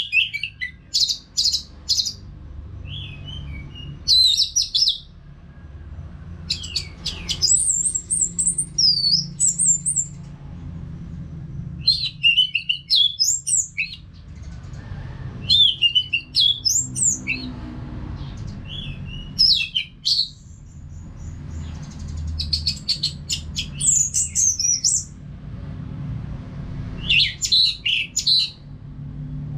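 Orange-headed thrush singing: short bursts of rapid, gliding whistled notes, about eight phrases repeated every three to four seconds, over a steady low hum.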